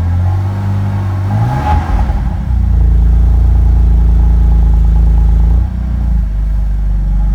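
BMW M4 (F82)'s 3.0-litre twin-turbo inline-six running at idle. Its note shifts with a brief rush of noise about two seconds in, steps up a little about three seconds in, and settles lower again near six seconds.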